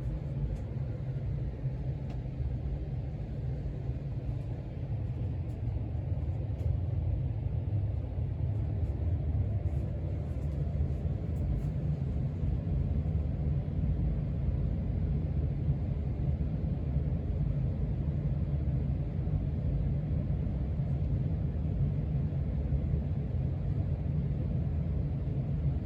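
Casablanca Zephyr ceiling fan running: a steady low rumble with a faint hiss above it.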